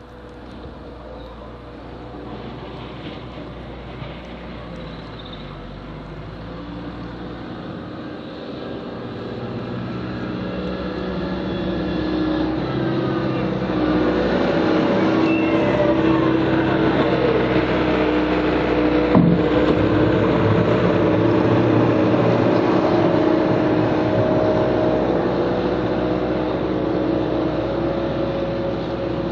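Diesel engine of a snow-plowing machine running under load, growing louder over the first half as it comes closer, its pitch rising and falling with the throttle. One sharp knock about two-thirds through.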